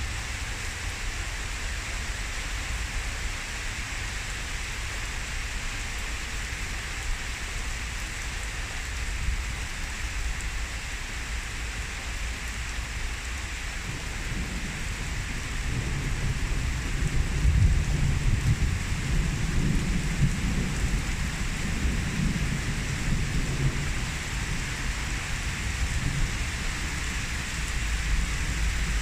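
Heavy downpour hissing steadily, with a long low roll of thunder starting about halfway through and loudest a few seconds after it begins before fading.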